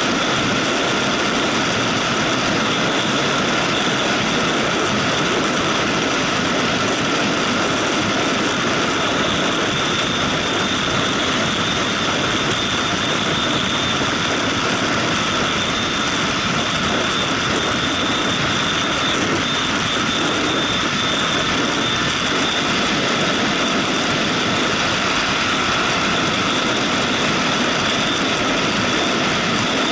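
Steady noise from a motorcycle under way: wind rushing over the microphone mixed with the engine and road noise, with no change in speed or pitch.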